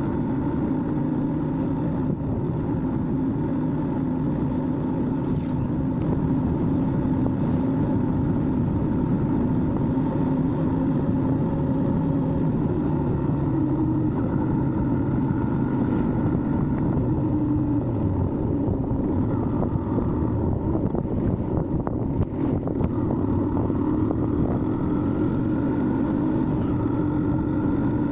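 Yamaha R15 motorcycle's single-cylinder engine running steadily at cruising speed, its pitch drifting up and down a little with the throttle.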